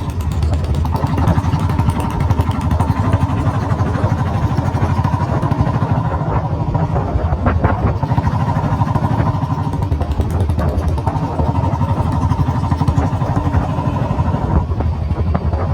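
Royal Enfield motorcycle engine running steadily through an aftermarket long-bottle Punjab silencer, a loud, even thumping exhaust note.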